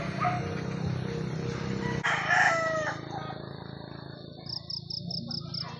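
Roosters crowing, the loudest crow coming about two seconds in, over a low hum that cuts off at the same moment. Near the end comes a quick run of about six short, high chirps.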